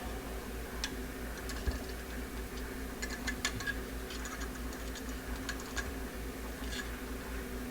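Light, irregular clicks and taps of small metal carburetor parts being handled while the float is fitted into a Motorcraft single-barrel carburetor, over a steady low hum.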